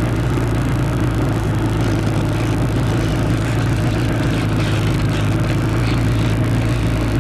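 Motorcycle engine running at a steady speed, heard from on board the bike, with wind rushing over the microphone.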